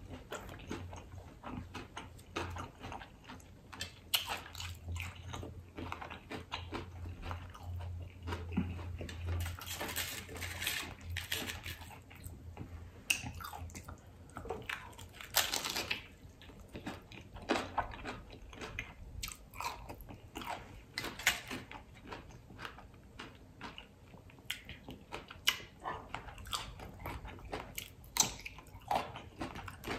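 Biting into and chewing crisp fried hard-shell tacos: repeated, irregular sharp crunches of the shell, with wet chewing in between.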